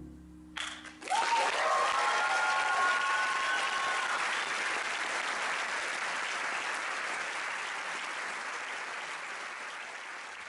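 The band's final chord dies away and stops about a second in. An audience then breaks into applause with a few held cheers, and the clapping slowly tails off.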